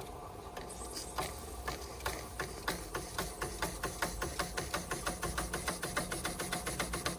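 Märklin 4149/9 live steam engine running slowly, a rhythmic train of short beats that is uneven at first and settles into a steady pace of about five a second from about three seconds in.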